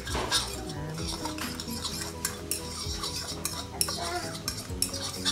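Metal fork stirring a dry spice mix in a small ceramic bowl, with quick, repeated clinks and scrapes of the tines against the bowl.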